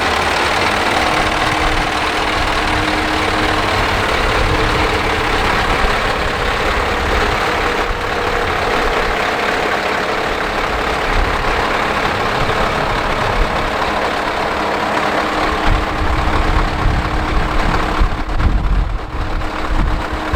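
Scania R560 tractor unit's V8 diesel engine idling steadily. From about 18 seconds in, the low end turns uneven and rumbling.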